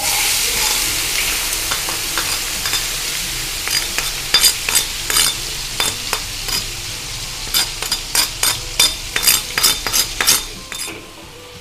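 Ground chilli, shallot, garlic and tomato paste sizzling in hot oil in a wok. The sizzle starts suddenly and slowly dies down, while a metal spatula stirs it with sharp clacks and scrapes against the wok, most of them in the second half.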